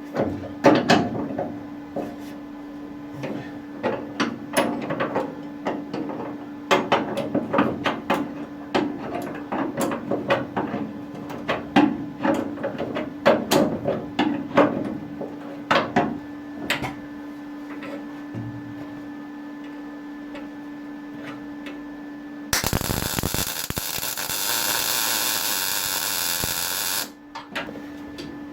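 MIG welder stitch-welding steel panel, a few seconds of irregular sputtering crackle at a time over the welder's steady hum. Near the end comes a loud, even hiss lasting about four seconds.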